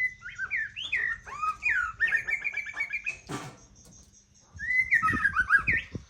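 White-rumped shama singing: quick, varied whistled phrases with rising and falling notes and a fast run of repeated notes, in two bursts separated by a pause of about a second and a half. A sharp click falls at the start of the pause.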